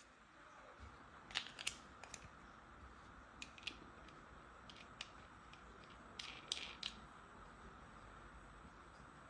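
Small plastic toy tool parts being handled, giving scattered sharp clicks and taps in irregular clusters over a faint hiss.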